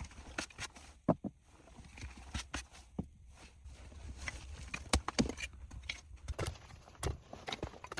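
Irregular sharp knocks and taps, one or two a second, over a low steady rumble.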